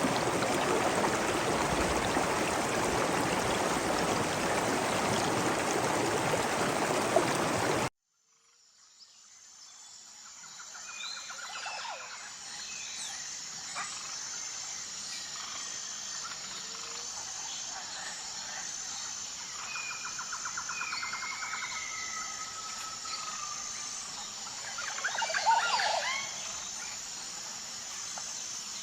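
Rushing water for about the first eight seconds, which cuts off abruptly. Then rainforest ambience fades in: a steady, evenly pulsing high insect whine, repeated rattling trills and scattered bird calls, with a loud run of falling calls near the end.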